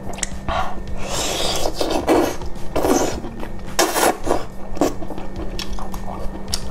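Close-miked eating sounds of cooked octopus being chewed and handled, in irregular noisy bursts about half a second to a second apart, the loudest about four seconds in.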